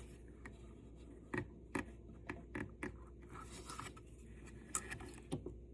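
Faint, scattered small clicks and scratches of hand work: the cut end of the MIG welder's steel feed wire being poked through a hole in the wire spool to keep it from unravelling.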